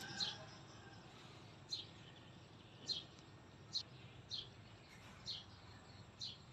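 A small bird calling repeatedly: short, sharp, high-pitched chirps that drop in pitch, about one a second, over faint steady background noise.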